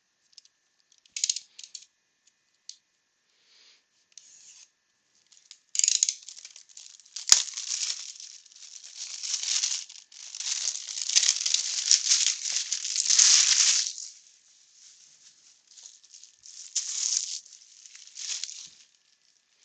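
Plastic shrink-wrap on a sealed box of trading cards being torn and crinkled as the box is opened: irregular rustling and crackling, heaviest in the middle stretch, with one sharp click about seven seconds in.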